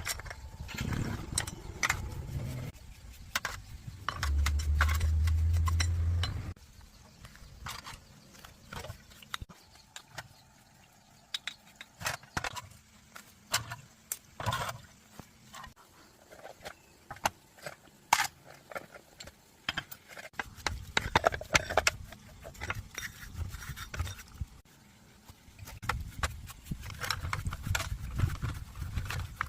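Scattered clicks, clinks and scrapes of metal parts and hand tools being handled during engine repair, with a loud low rumble for about two seconds near the start.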